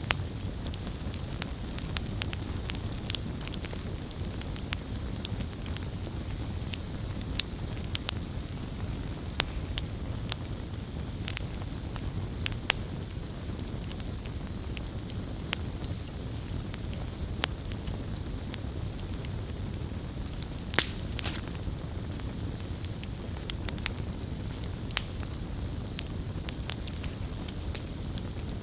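Wood campfire burning: a steady low rumble of flames with irregular sharp crackles and pops, one pop louder than the rest about three quarters of the way through.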